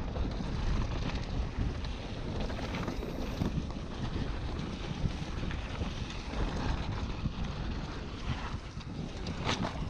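Wind buffeting the microphone of a moving mountain bike, over a steady low rumble of riding on a dirt trail, with scattered clicks and rattles and a few sharper clicks near the end.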